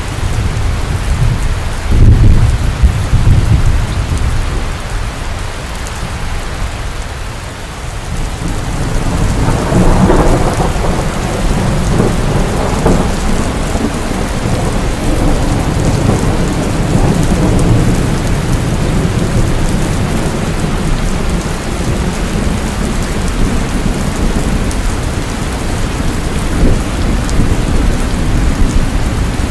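Steady heavy rain with thunder. A loud low thunderclap comes about two seconds in, and a longer rumble builds from about eight seconds and then slowly fades under the rain.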